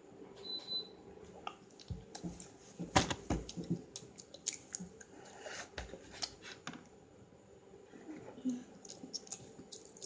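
Gum being chewed close to the microphone: irregular wet clicks and smacks from the mouth, loudest around three seconds in.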